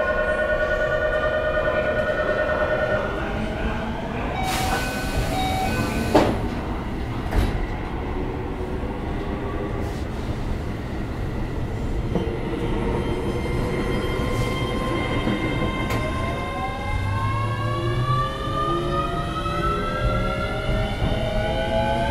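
Keio 7000 series commuter train running, heard from inside car 7029. A steady chord of tones sounds for the first few seconds, then come a couple of sharp clicks. From about two-thirds of the way in, a whine rises steadily in pitch as the train picks up speed.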